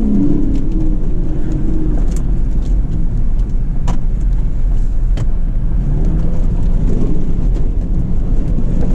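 Honda CR-V being driven hard in a quick rip: its engine pulls under load over a steady low rumble, with the engine pitch climbing again about six seconds in.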